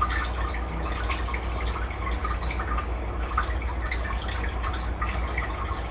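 Faint dripping and trickling water over a steady low hum.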